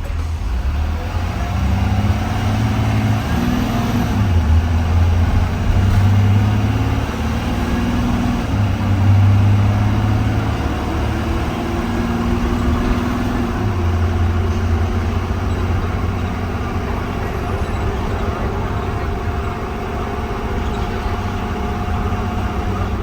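School bus engine of a 2020 Blue Bird Vision, heard from inside the bus as it pulls away and accelerates. Its note steps up and drops back several times over the first dozen seconds as the transmission shifts, then settles into steady running.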